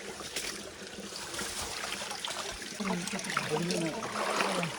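Stream water running and trickling steadily, with faint voices talking from about three seconds in.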